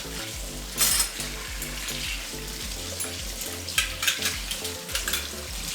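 Dishes clinking as they are rinsed and stacked at a kitchen sink, with a sharp knock about a second in and a cluster of clinks near the end, over a steady hiss and soft background music.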